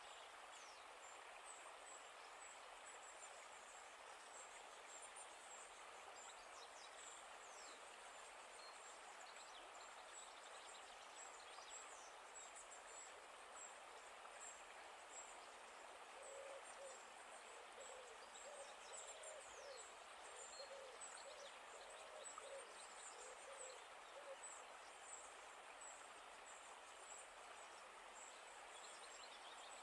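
Faint outdoor ambience of birds: a steady background hiss with scattered high chirps, and from about halfway a run of short, low, evenly repeated calls, about two a second, that stop a few seconds before the end.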